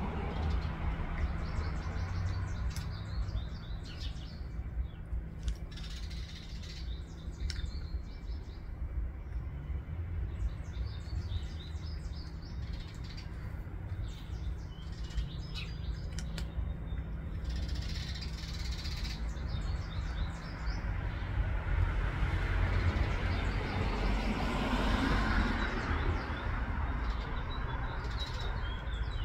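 Small birds chirping in short repeated phrases over a steady low rumble. A broad rushing noise swells and fades in the last third.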